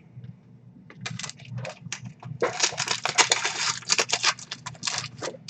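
Crinkling and tearing of a trading-card pack wrapper as the pack is opened, with cards clicking against each other. The crackle starts as scattered clicks, is densest for about two seconds in the middle, then thins out.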